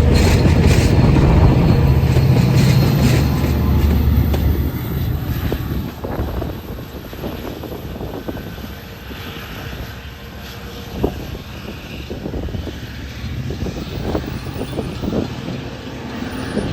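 Long Island Rail Road diesel train's engine drone, loud for the first few seconds and then fading away, leaving a quieter background with a few faint knocks.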